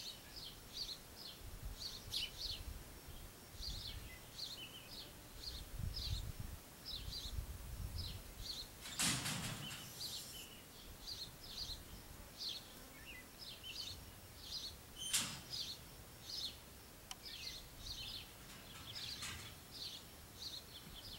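Small birds chirping over and over in short high calls, over a low uneven rumble. A brief loud hiss about nine seconds in and a sharp click about fifteen seconds in.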